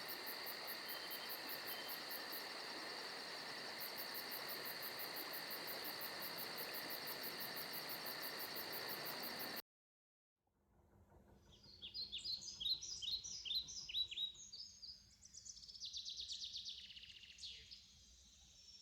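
Steady night chorus of insects, with a fast high pulsing trill over steady high tones, cutting off suddenly about halfway. After a second of silence, a small bird sings a run of quick chirps and trills.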